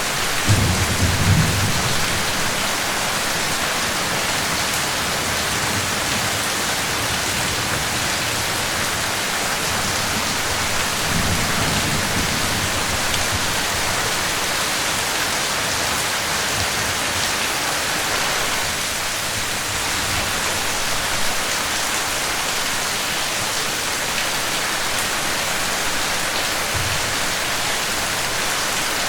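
Steady heavy rain hissing, with low rolls of thunder rumbling near the start and again about eleven seconds in.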